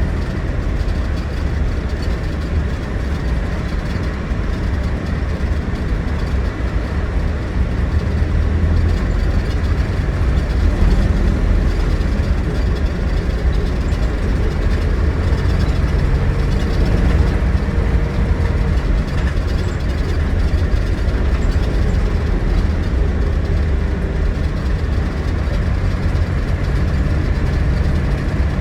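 Scania DC09 9.3-litre diesel engine of a Scania Irizar Century coach, running steadily with a low rumble that gets a little louder about eight seconds in.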